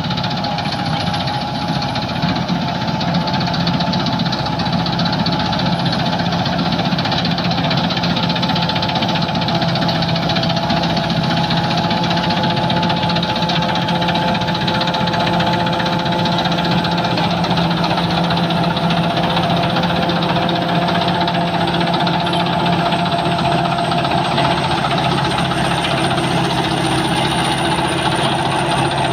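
Sakpattana KM-D rice combine harvester running steadily while harvesting, its engine giving a continuous drone with several held tones that shift slightly in pitch.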